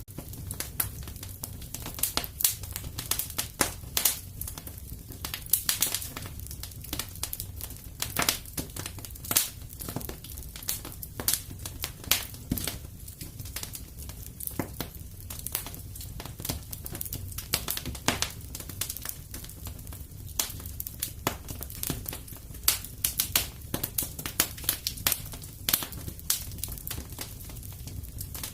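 Fire crackling in a fireplace: irregular sharp snaps, bunched several a second at times, over a low steady rumble.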